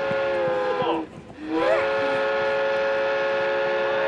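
Multi-tone train horn sounding a chord: one long blast sags in pitch and cuts off about a second in, then a second blast starts half a second later and holds steady.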